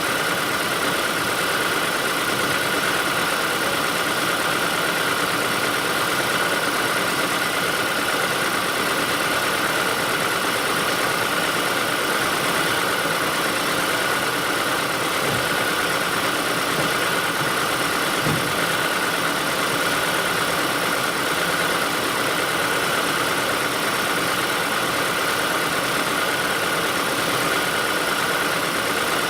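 Steady mechanical running noise with a constant high hum from the running 2008 Ford Escape Hybrid idling, with no A/C compressor clutch engaging.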